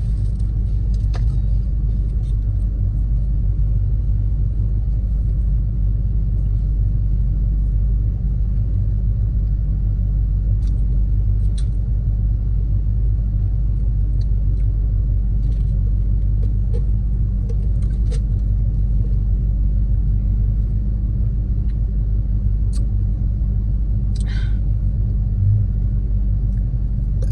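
Car engine idling, a steady low hum heard from inside the cabin, with a few faint clicks and rustles scattered through it.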